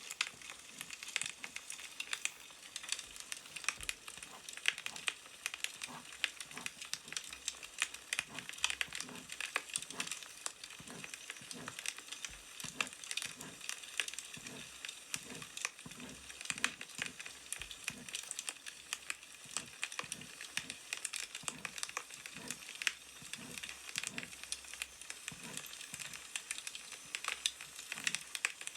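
Crackling wood fire: a steady hiss with a dense, irregular run of small snaps and pops.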